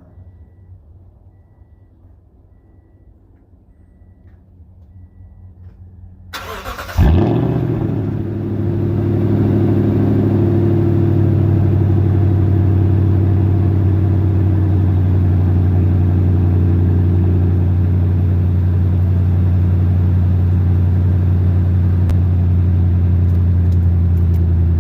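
Toyota Tundra with the muffler removed and the catalytic converters kept, cold-starting. After a few quiet seconds with faint beeping, the starter cranks, and the engine catches about seven seconds in with a loud burst. It then settles into a steady, deep, loud idle.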